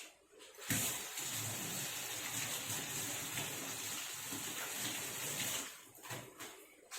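Water running steadily, starting abruptly about a second in and stopping near the end.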